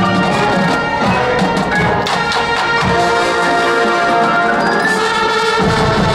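High school marching band playing, with brass sustaining full chords over percussion strikes.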